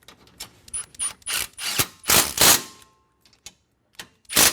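Hand ratchet wrench clicking in a string of short, uneven strokes as a bolt is run in, pausing for about a second before two more strokes near the end.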